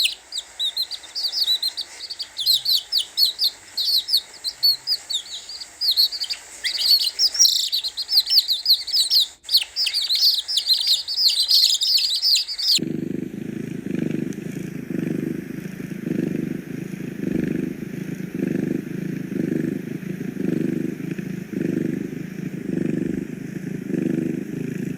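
Many small birds, likely chicks, peeping in rapid, falling chirps. Halfway through, the sound cuts to a steady, low, rhythmic pulsing of about one and a half beats a second from an unidentified animal.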